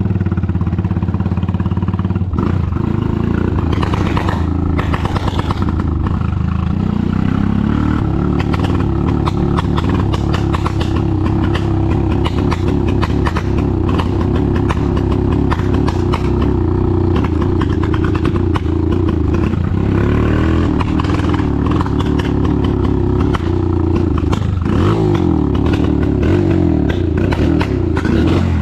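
Motorcycle engine running as the bike is ridden, its pitch rising and falling with speed, climbing noticeably about six to eight seconds in.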